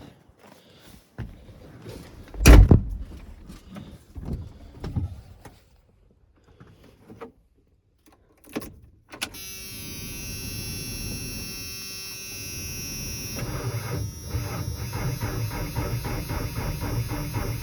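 Clunks and a heavy door shutting about two and a half seconds in. About nine seconds in, the 1995 Ford F-150's 4.9-litre straight-six is cranked over on a cold start, catches about four seconds later and keeps running, growing louder.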